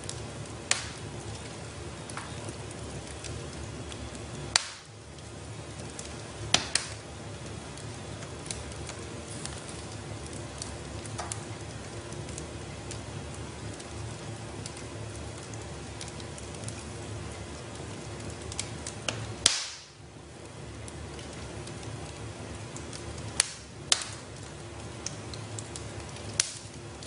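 Wood fire burning in a fireplace: a steady low rumble and hiss with scattered crackles and sharp pops every few seconds, the loudest pop about two-thirds of the way through.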